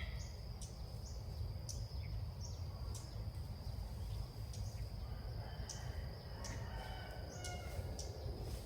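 Red-whiskered bulbuls calling: short sharp chirps come every second or so, with a few whistled notes about six to seven seconds in. Underneath is a steady high insect drone and a low rumble of wind on the microphone.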